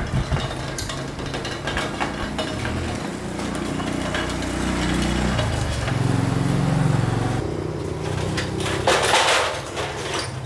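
A small motorbike engine running, its pitch rising and falling, with metallic clinks and knocks throughout and a hiss near the end.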